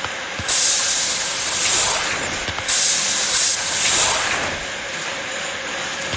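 Two sudden bursts of hissing air, each about a second and a half long, from a train's compressed-air system venting, over the steady running noise of the carriage.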